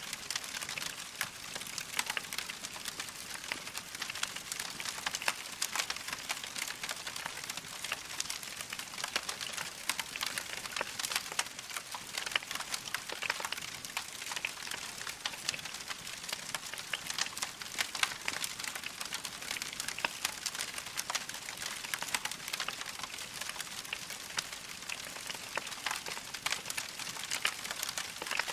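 Wood fire crackling in a fireplace: a steady hiss with dense small pops and snaps.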